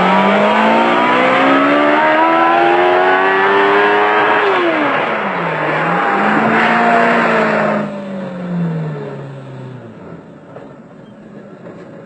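Race car engines accelerating hard at full throttle in a drag race. The engine note climbs steadily for about four seconds, dips sharply and climbs again, then falls in pitch and fades as the cars pass and draw away.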